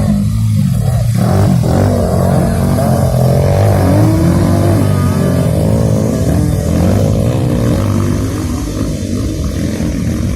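Motocross dirt bikes racing, engines revving up and down as they run the track.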